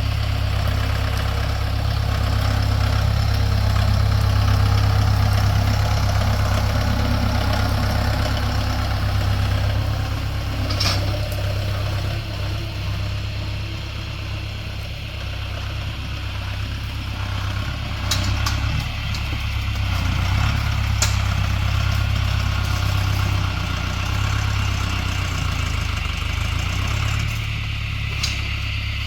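Tractor engine running steadily, easing off a little in the middle, with a few short clanks.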